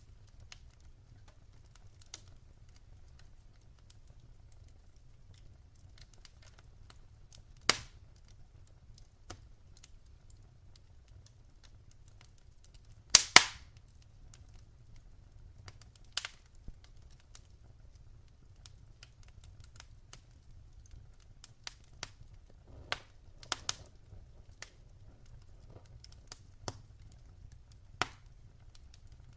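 Wood fire in a fireplace crackling: scattered sharp pops and snaps over a low steady rumble of flames, the loudest a quick pair about halfway through.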